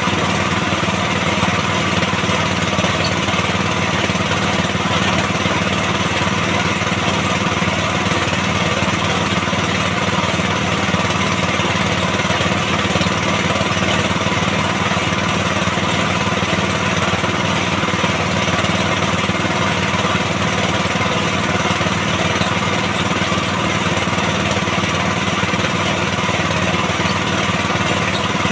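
Small engine of a water-well drilling rig running steadily at constant speed, with a rapid even pulsing, driving the drill unattended.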